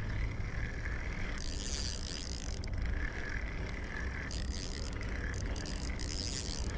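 Fishing reel being wound steadily, bringing in a hooked fish.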